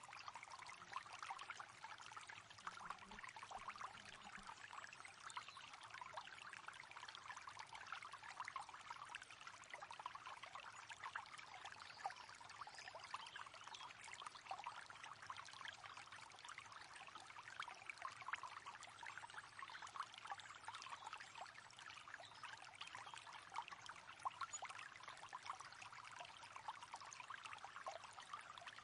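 A river running steadily, a quiet, even rush of flowing water with a fine trickling texture.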